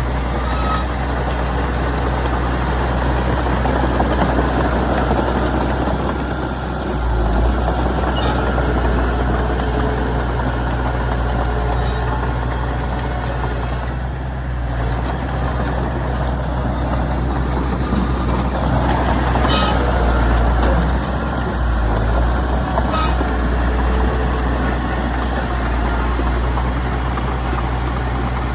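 Diesel engine of a Komatsu D31PX crawler bulldozer running steadily under load while it pushes soil, with a few brief sharp metallic squeaks over the drone.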